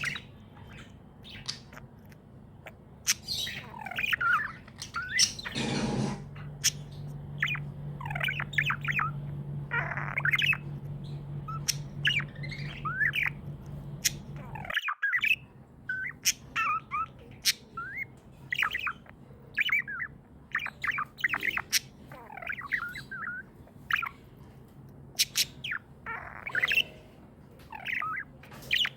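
Budgerigars chirping and chattering in a continuous run of short, quick chirps, squawks and sharp clicks, with a brief break about halfway through.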